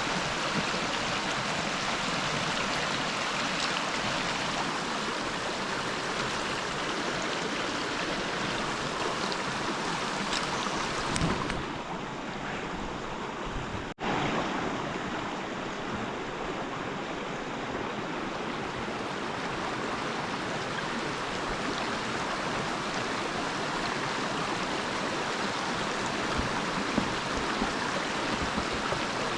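River water rushing and flowing steadily, with a momentary break about halfway through.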